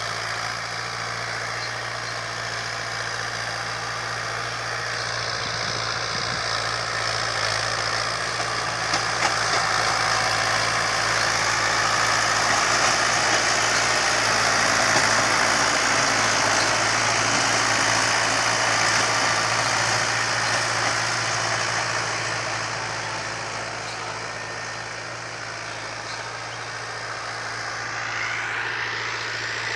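Fiat 640 tractor's diesel engine running steadily, growing louder about a third of the way in and easing off again near the end.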